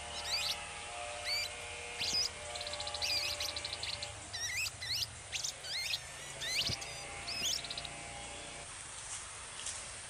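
Small songbird calls: short rising whistled chirps repeated every second or so, with a fast rattling trill about three seconds in and a shorter one near eight seconds.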